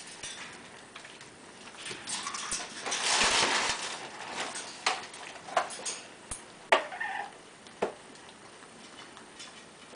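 A rustling, scuffling noise about three seconds in, then a handful of sharp clicks or taps spaced about a second apart.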